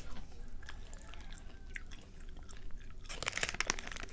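Close-up mouth sounds of chewing a very tough, chewy dried scallop mantle snack, with small wet clicks. About three seconds in, a louder, denser crackling begins.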